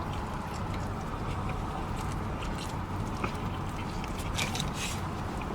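A person chewing a jerk turkey sub sandwich close to the microphone, with many short wet clicks and smacks from the mouth over a steady low hum.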